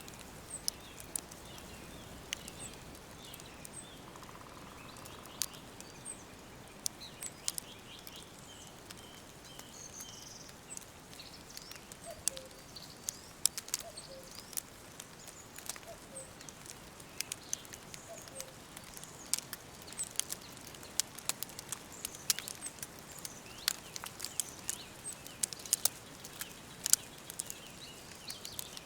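Fire crackling with sharp, irregular pops that come thicker in the second half, over a faint steady background. Birds chirp now and then, and a low falling two-note call repeats several times near the middle.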